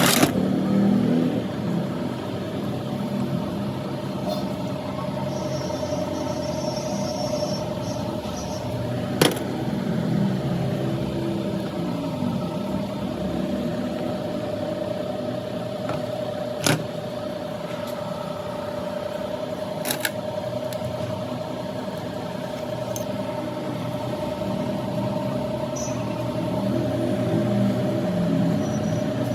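Workshop background: a steady hum with a low rumble of passing vehicles and faint voices, broken by a few sharp metallic clicks of hydraulic gear pump parts and tools being handled.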